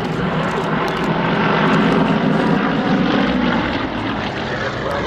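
Nine-cylinder 360-horsepower radial engine of a Yak aerobatic plane running at power in flight, a steady buzz that swells a little about two seconds in and eases off toward the end.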